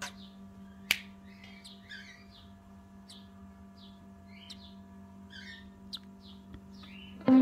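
Small bird chirping in short, quick calls, about two a second, over a steady low hum, with one sharp click about a second in.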